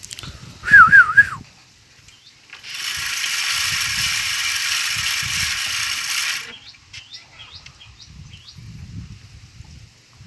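A bird's loud warbling whistle, wavering up and down briefly about a second in, then a harsh rasping buzz for about four seconds, with faint short high chirps throughout.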